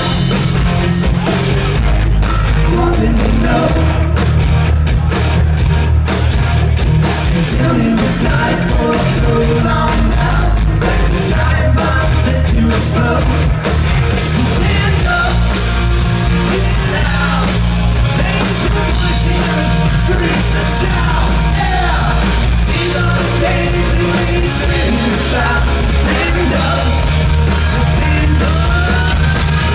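Live rock band playing loudly, with heavy bass and drums and a singer.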